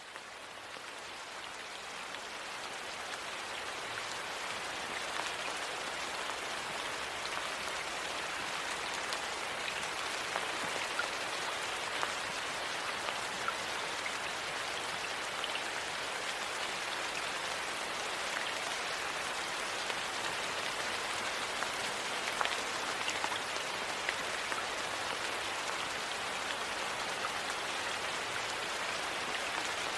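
Steady rain falling: an even hiss with scattered drop ticks. It fades in over the first few seconds.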